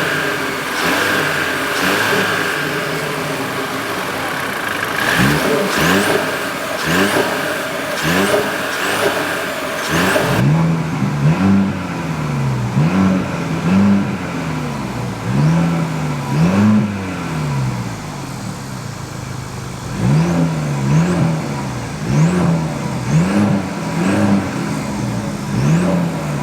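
Mercedes-Benz CLE300's turbocharged 2.0-litre inline-four being revved in repeated short throttle blips, each rise in pitch falling back to idle. About ten seconds in, the sound changes abruptly and the blips come roughly once a second, with a brief steady idle about two-thirds of the way through.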